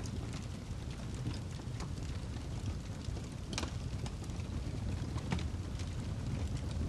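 Wood fire crackling in a fireplace: a steady low rumble of burning with scattered sharp pops and snaps, the loudest about three and a half and five seconds in.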